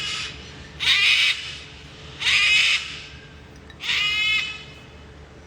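Sulphur-crested cockatoo screeching: four harsh, loud screeches, each about half a second long and a second or so apart.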